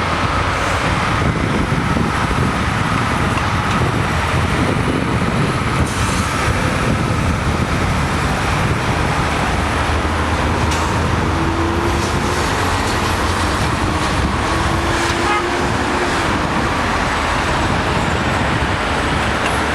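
Steady freeway traffic and road noise.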